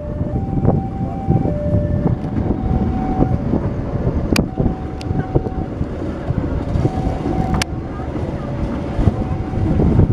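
Passenger train carriage running with a steady low rumble and a few sharp clicks. Over it, a two-tone warning signal alternates between a higher and a lower note, about one note a second.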